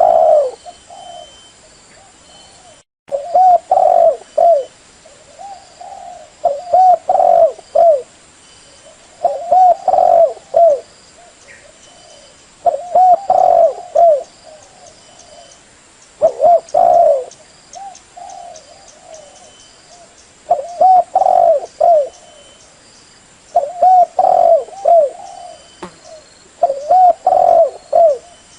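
Female spotted dove cooing, the call used to lure in males. It sings repeated phrases of several short coos, with a new phrase every three to four seconds.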